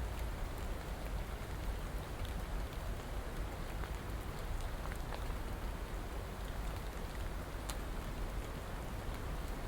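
Steady rainfall, an even hiss with scattered drops ticking on a surface.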